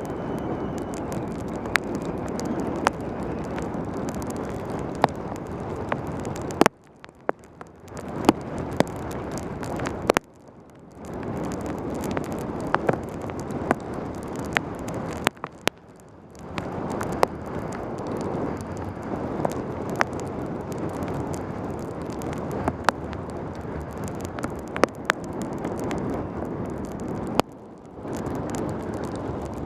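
Wind and road rush on a helmet camera's microphone during a fast mountain-bike descent in pouring rain, with many sharp clicks and taps. The rush cuts out suddenly four times and builds back up each time.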